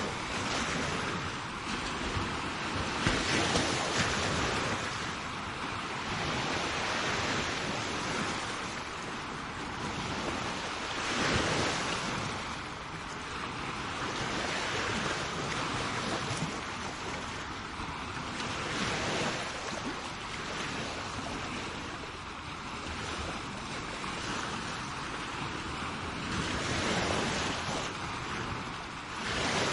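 Sea waves breaking and washing up a shore, a continuous surf wash that swells and ebbs every few seconds, with wind on the microphone.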